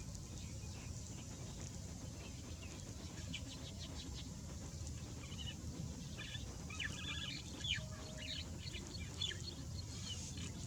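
Birds calling in short, quick high chirps, thickest through the middle of the stretch, over a steady low rumble.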